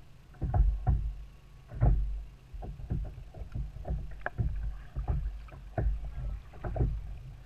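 Irregular knocks and bumps on a kayak, about two a second, over a low rumble.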